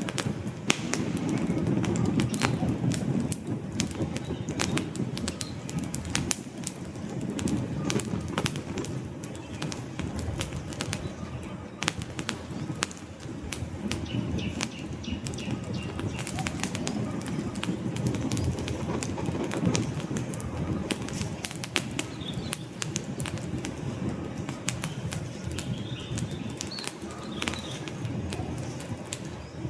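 Wood fire burning in a fireplace: logs crackling with many sharp pops over the low, steady rush of the flames.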